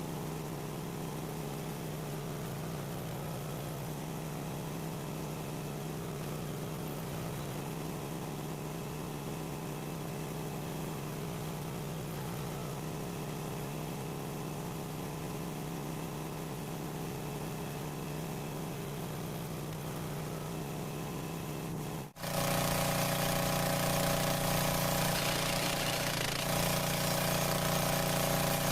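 An engine running steadily at a constant speed. About three-quarters of the way through the sound cuts out for an instant, then an engine comes back louder, with a fuller set of steady tones.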